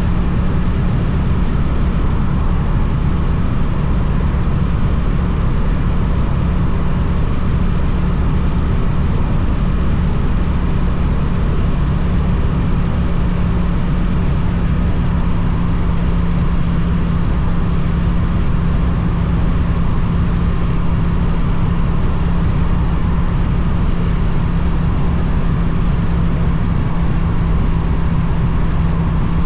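Twin-cylinder Suzuki motorcycle engine running through an Akrapovic aftermarket exhaust at a steady cruise. Its pitch edges slightly higher about halfway through.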